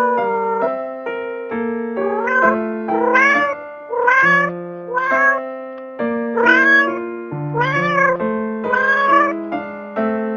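A cat meowing again and again, about once a second, each meow rising then falling in pitch, over keyboard music with held notes.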